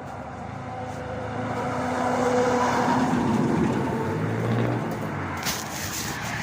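A motor vehicle passing by, its engine getting louder to a peak about halfway through and then fading. A sharp click comes near the end.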